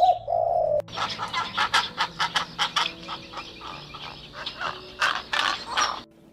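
Domestic fowl calling: a brief pitched call, then a dense, rapid run of short, harsh calls for about five seconds that stops shortly before the end.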